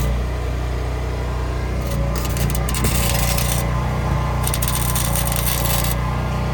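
Welding arc crackling in two bursts of about a second and a half each, over a steady low hum.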